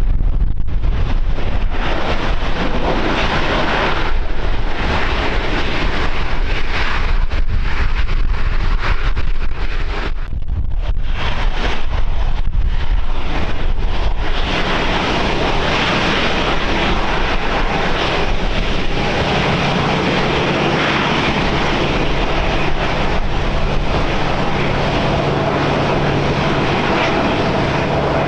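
Wind buffeting the microphone in uneven gusts, then about halfway through an airliner's engines come in as a steady, dense rushing sound with a low hum under it.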